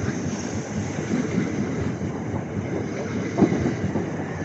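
Class 375 electric multiple unit departing past the platform: a steady rumble of wheels on the rails, with one sharp clack about three and a half seconds in.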